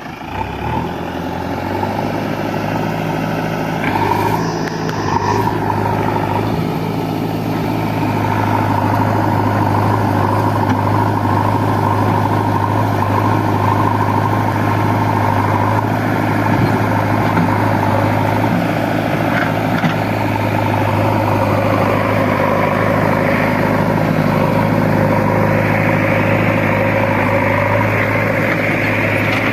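Diesel engine of a heavy farm or earthmoving machine running at a steady idle just after starting, its level climbing over the first couple of seconds and then holding even.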